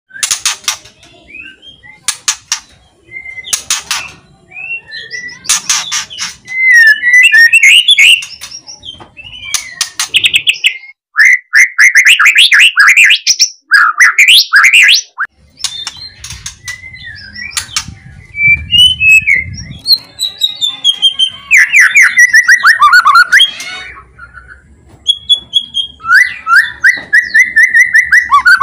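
White-rumped shama (murai batu) singing loudly: sharp crackling rattle calls ('kretekan') in the first few seconds, then fast rising whistled phrases and trills.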